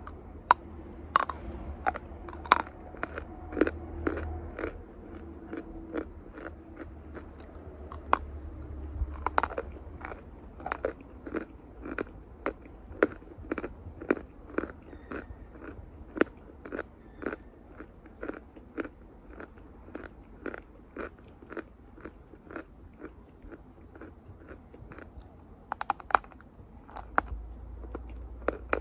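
Close-miked biting and chewing of dry chalk: a steady run of sharp, crisp crunches, about two a second.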